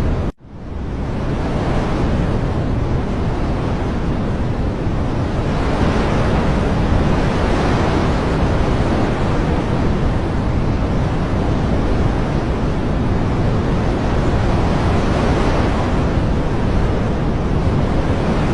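Dense, steady rushing water noise that swells gently now and then. It cuts out sharply about a third of a second in and fades back up within a second, like a loop join.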